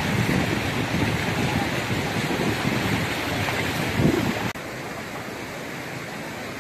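Swollen, fast-flowing river water rushing, with wind buffeting the microphone. About four and a half seconds in the sound drops suddenly to a quieter, steady rush of water.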